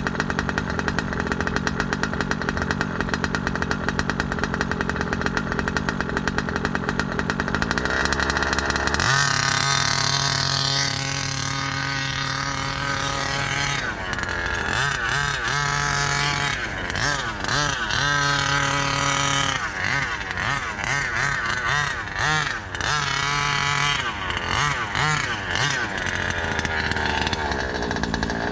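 New ESP two-stroke RC engine running in on a break-in heat cycle. It idles with a fast, even pulsing for about nine seconds, then runs at a higher steady pitch and is blipped up and down repeatedly, easing back toward idle near the end.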